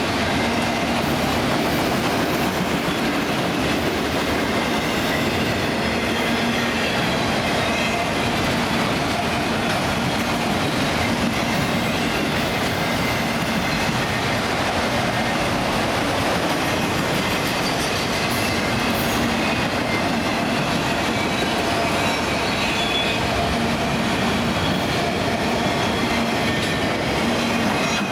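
Empty autorack freight cars rolling past steadily, steel wheels running on the rails with faint thin squealing tones over the running noise.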